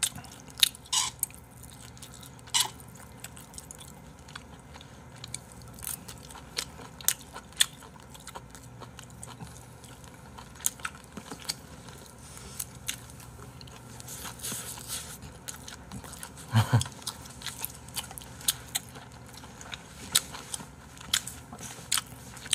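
Close-miked eating sounds: wet chewing of braised kimchi stew and rice, with many scattered sharp clicks and one short louder sound about three-quarters of the way through.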